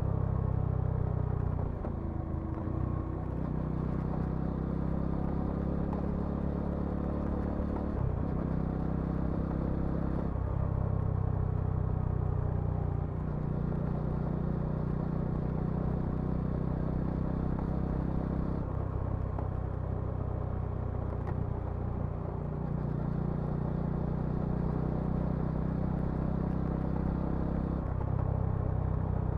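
Bajaj Dominar 400's single-cylinder engine and exhaust running under way on a ride, the note dropping and picking up again several times as the throttle is rolled off and on through gear changes.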